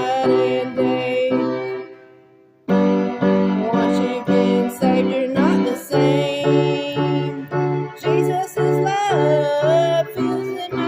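Electronic keyboard playing chords struck about twice a second, with a wavering melody line over them. The music fades out about two seconds in and starts again abruptly under a second later.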